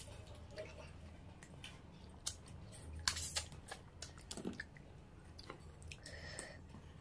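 Close-miked chewing and crunching as crab curry is eaten by hand, with short wet clicks and crackles and a loud cluster of crunches about three seconds in.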